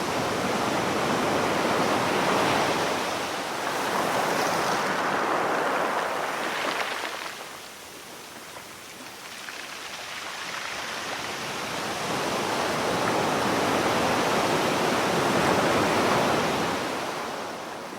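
Sea waves washing ashore: a broad hiss that swells and fades in two long surges, dropping away about eight seconds in before the next wave builds.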